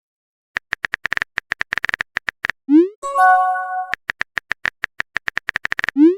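Phone-keyboard typing clicks in an irregular run, then a quick rising whoosh and a short chime, like a chat message being typed and sent; the sequence happens twice.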